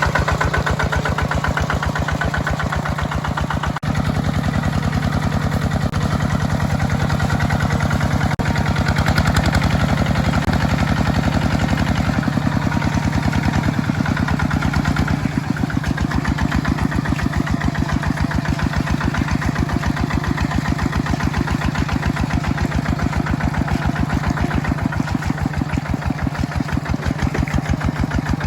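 A small tractor's engine runs steadily with an even, rapid pulse.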